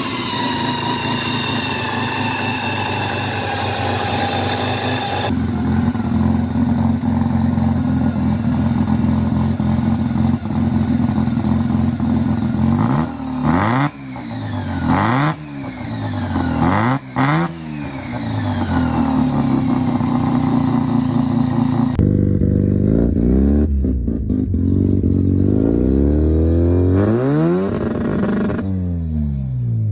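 Mazda 12A two-rotor rotary engines, several recordings in a row. First a steady run at held revs, then a series of sharp throttle blips rising and falling in pitch, then more revving up and down.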